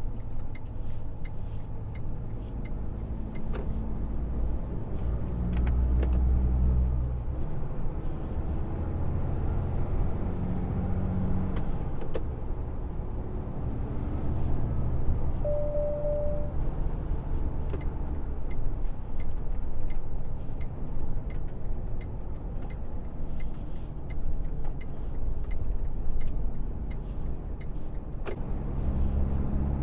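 Truck engine heard from inside the cab while driving, its pitch rising and dropping again several times as it works through the gears. An indicator ticks steadily at times, and there is one short beep about halfway through.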